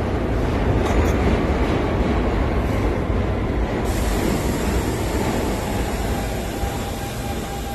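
Kawasaki R68A subway car running on the rails with a steady heavy rumble. A thin steady whine comes in about five seconds in, and the noise eases off slightly near the end.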